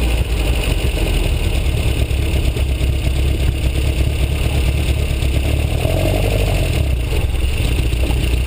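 Matra Murena 2.2's four-cylinder engine, fitted with a Piper 3777 camshaft, running steadily with a deep, low-pitched note.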